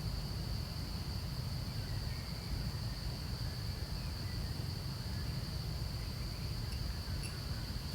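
Steady high-pitched insect chorus, over a low, uneven rumble.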